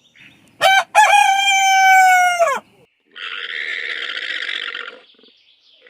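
Rooster crowing: one long crow starting about half a second in that drops in pitch as it ends, followed by a quieter, hoarse, rasping call lasting nearly two seconds.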